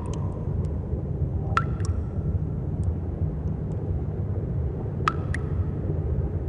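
Cave ambience: water drops falling into a pool, each a sharp plink with a short ringing tone, about five or six at uneven intervals, over a steady low rumble.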